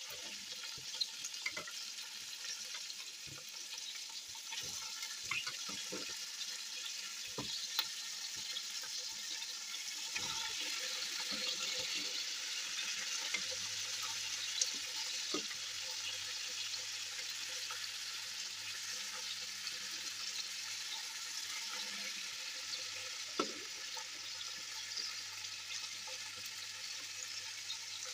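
Boiled lamb pieces searing in hot oil with sliced onions and garlic in a pot: a steady frying sizzle, with scattered light knocks in the first half as the pieces go in.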